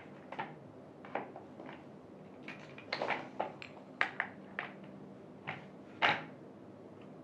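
Irregular plastic clicks and knocks as office-chair caster wheels are handled and pushed into the sockets of the upturned chair base. The loudest knock comes about six seconds in.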